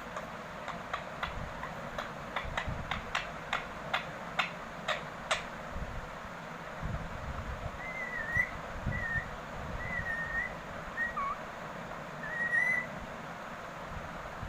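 A run of sharp clicks, about two a second, then an Indian ringneck parrot giving several short whistles.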